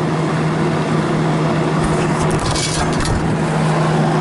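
Steady low machinery hum, with a few light metallic clinks about two to three seconds in.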